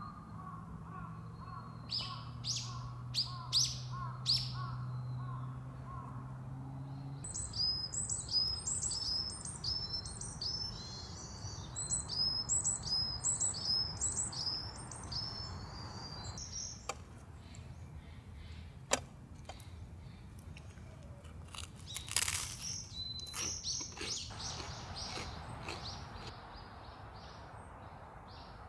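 Wild birds calling in runs of quick, repeated high chirps, with a lower repeated call in the first few seconds. A low steady hum stops about seven seconds in, and a few sharp clicks come in the second half.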